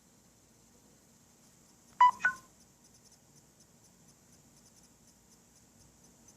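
Qi wireless charger giving off a faint, steady high-pitched whine with faint rapid ticking in it. About two seconds in, two short electronic beeps sound a quarter-second apart.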